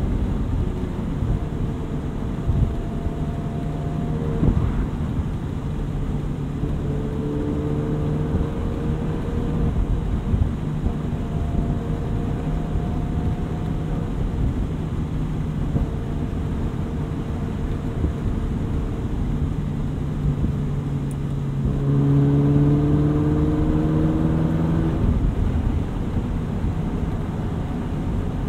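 Ferrari 458 Spider's 4.5-litre F136 V8 running at low revs while driving, over road noise. The engine note shifts pitch a few times and rises, louder, from about 22 to 25 seconds in.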